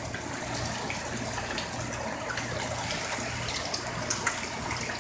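Heavy tropical-storm rain falling steadily, with scattered drips and splashes ticking through it.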